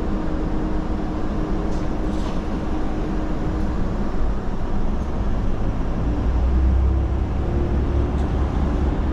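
Diesel railcar running, a steady rumble with an engine hum that drops out about halfway through and a deeper rumble swelling later on.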